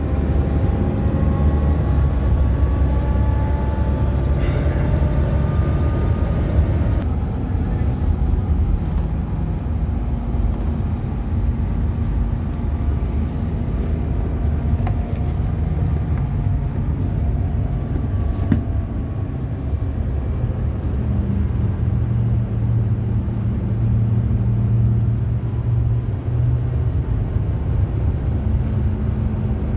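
Bus engine running steadily under road noise, heard from inside the cabin, with a low hum. The engine note shifts about two-thirds of the way through.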